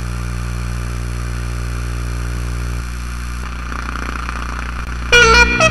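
A steady, unchanging low hum, then loud keyboard music with organ-like notes starts about five seconds in.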